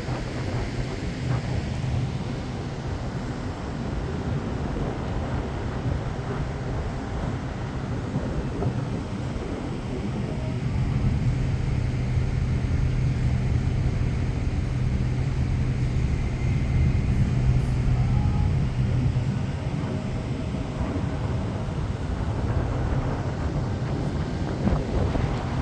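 Steady low engine hum, a little louder for a stretch in the middle, under wind noise on the microphone.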